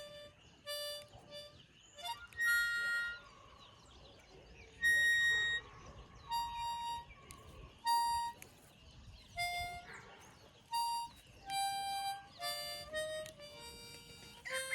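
Harmonica playing a slow, halting tune of single notes, some short and some held, with brief gaps between them.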